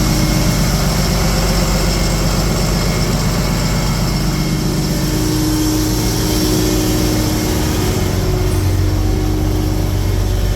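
Cummins diesel engine of a Freightliner M2 truck idling steadily, with a steady hiss over the engine note.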